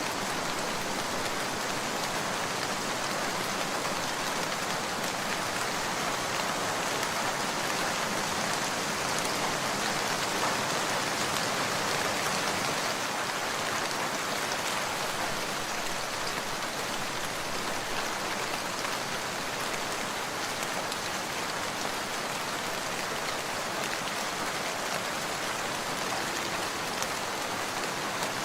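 Steady rain, an even hiss with faint scattered ticks of drops.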